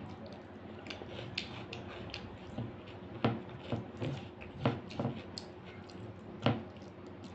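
Close-miked chewing of rice and dal: a run of wet mouth clicks and smacks, a few louder ones in the second half.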